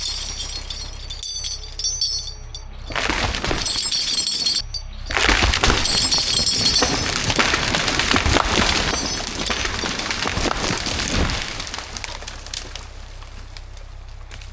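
Wood cracking and splintering as the stem of an uprooted tree gives way, then a longer crash of the trunk and crown coming down through branches, fading out after several seconds. A low, steady engine hum runs underneath.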